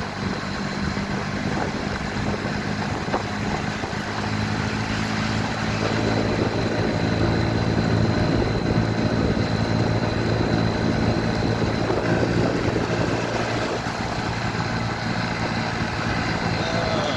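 Motorcycle engine running while under way, with steady road and wind noise; the engine note grows louder about six seconds in.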